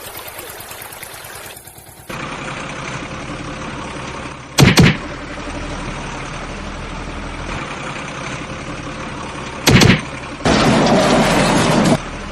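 Steady engine-like running sound, with two short loud blasts about five seconds apart and a louder stretch near the end.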